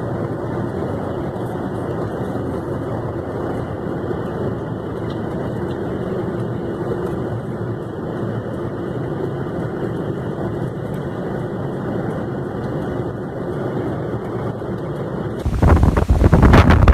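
Steady rushing noise. Near the end it switches abruptly to louder, gusty wind buffeting the microphone.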